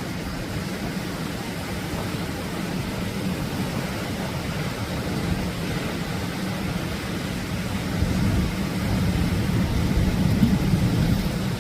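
Atlantic surf breaking on a beach: a steady wash of wave noise, swelling louder for a few seconds near the end.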